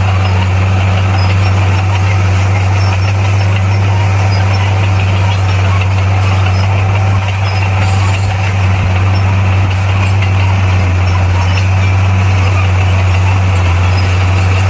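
Bulldozer's heavy diesel engine running steadily with a deep, unchanging low drone.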